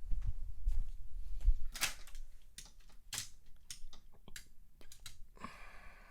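Light plastic clicks and taps of die-cast toy cars being handled and set into the lanes of a plastic track, with a few duller knocks in the first second and a half. A short buzzing tone comes in about five seconds in.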